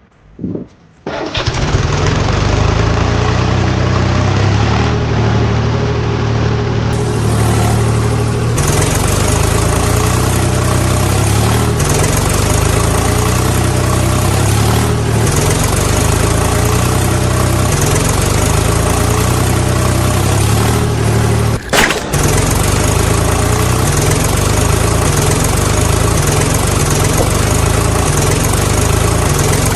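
A tractor engine starts about a second in and then runs steadily at idle, with a brief break near the end.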